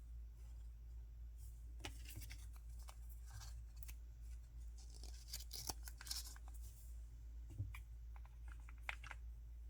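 Faint handling of toy packaging: plastic or paper rustling and crinkling in short bursts, with small clicks and taps, over a low steady hum.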